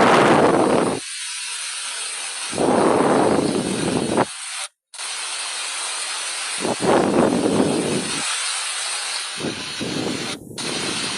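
Steady hiss of water noise with repeated low gusts of wind buffeting the microphone, each lasting a second or two; the sound breaks off abruptly twice.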